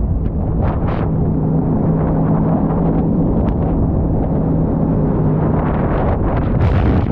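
Watercraft engine running at a steady pitch under heavy wind buffeting on the microphone, as from riding over the water.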